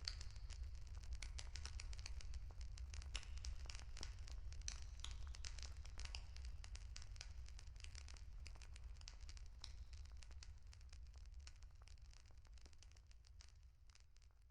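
Wood campfire crackling, with dense irregular pops and snaps over a low steady rumble, fading out over the last few seconds.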